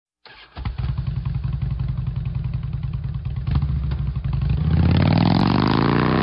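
Motorcycle engine catching and idling with an even, pulsing beat, then revving up, its pitch rising steadily from about four and a half seconds in.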